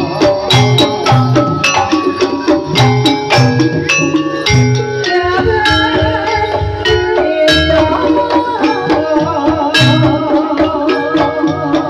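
Live jaranan music from a gamelan-style ensemble: hand drums keep a steady driving rhythm under ringing gong-chime and metallophone notes, with a wavering melody line on top.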